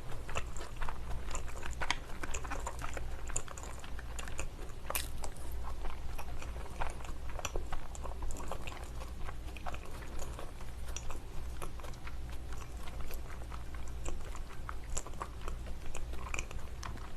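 Close-miked chewing of salmon sashimi with rice and wasabi: soft, wet mouth clicks and smacks, irregular, all through, over a faint steady low hum.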